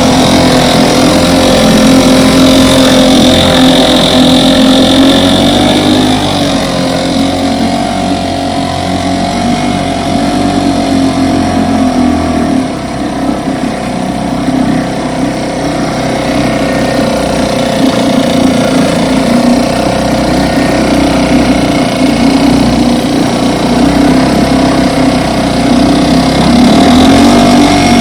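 A 1960 West Bend 2 hp two-stroke outboard motor (model 2901), freshly rebuilt, running steadily at a constant speed, with a brief small change in pitch about six seconds in.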